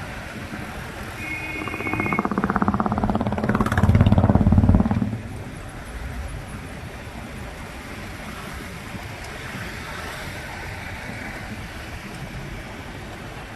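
Street traffic heard from a motorcycle on the move; about two seconds in, a vehicle engine close by grows loud, peaks, and drops away sharply about five seconds in. A short high beep sounds just before it.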